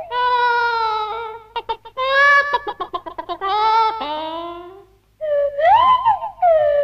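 Cartoon Iron Chicken giving a string of upset squawking calls, wavering and sliding in pitch, broken by quick clicking runs, with a short pause about five seconds in.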